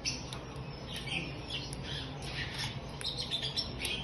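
Small songbirds chirping, many short overlapping calls in quick succession.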